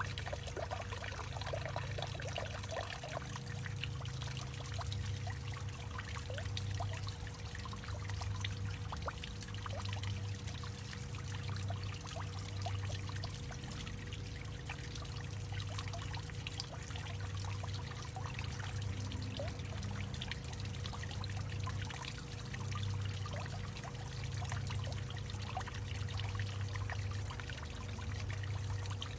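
Water trickling and pouring steadily into a hollowed-out tree, with many small drips and a low hollow drone that swells and fades about every two seconds.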